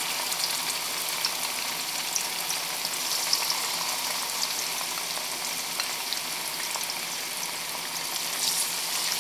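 Tofu cubes frying in hot oil in a wok: a steady sizzle with scattered small pops and crackles.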